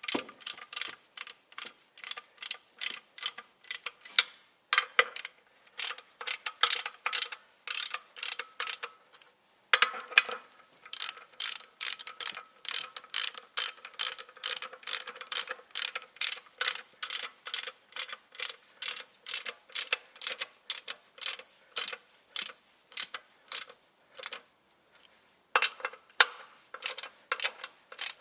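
Ratchet wrench clicking steadily, several clicks a second, as clutch pressure plate bolts are tightened evenly round the plate, with brief pauses as it moves from bolt to bolt.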